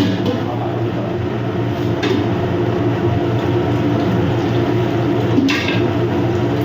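Steady low machinery drone with several fixed pitches, with a short clatter about two seconds in and another near the end.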